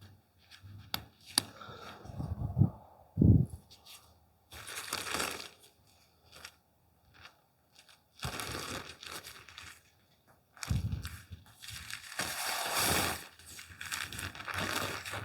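Tent fabric rustling and crinkling in irregular bursts as it is handled, with a couple of sharp clicks and two low thumps about three seconds in.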